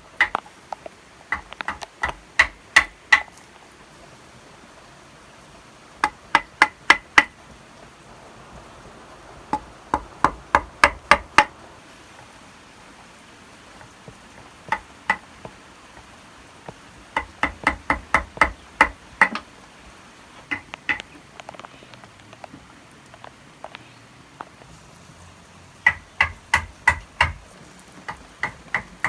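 Hammer driving nails, struck in quick runs of several sharp ringing blows with pauses between runs.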